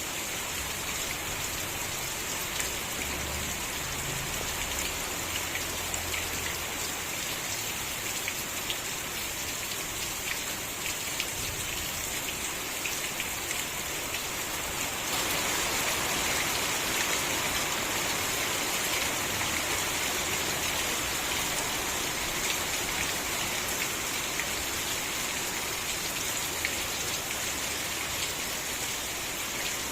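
Steady rainfall with many individual drops ticking on surfaces. About halfway through the rain grows heavier and louder.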